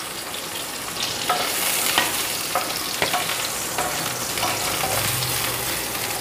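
Eggplant slices sizzling steadily as they fry in hot mustard oil in a nonstick frying pan. A spatula knocks and scrapes against the pan about six times as the slices are turned.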